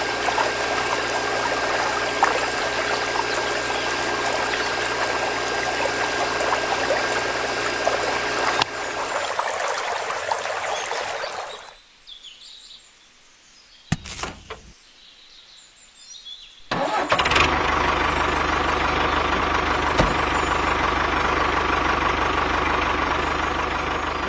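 A steady running motor or engine that dies away about 12 seconds in; after a quiet gap broken by a single click, another steady engine-like running sound starts about 17 seconds in.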